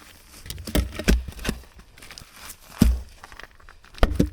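Irregular sharp knocks and deep thumps, about six in four seconds, the loudest near three and four seconds in.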